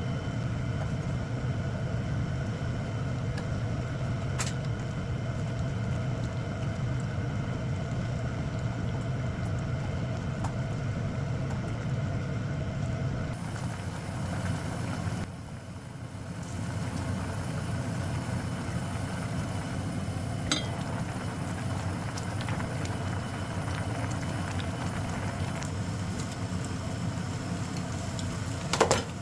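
Steady mechanical hum with a few faint steady whines, dropping away briefly about halfway through, and a few sharp clicks near the end.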